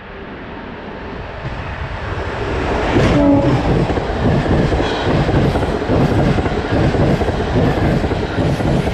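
Z236 express passenger train passing slowly: its noise builds over the first three seconds as it draws level, then holds as a steady rumble of wheels with a rhythmic clickety-clack over the rail joints.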